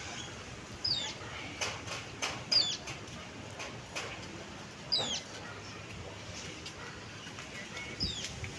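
Outdoor bird calls: a bird gives short, high, downward-sliding chirps four times, a couple of seconds apart, over scattered sharp clicks.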